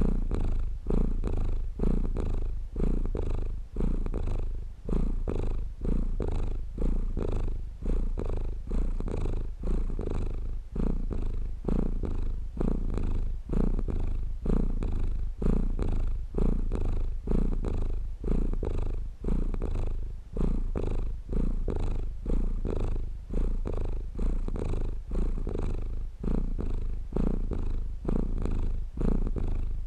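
Domestic cat purring steadily, the purr pulsing in an even rhythm with each breath in and out.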